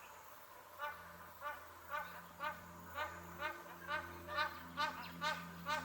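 Magpie geese honking: a run of short, ringing honks, about two a second, growing louder toward the end.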